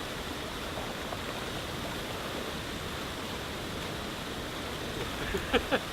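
Steady rushing of water from a partly frozen waterfall, an even hiss with no breaks. Near the end comes a short voice-like sound.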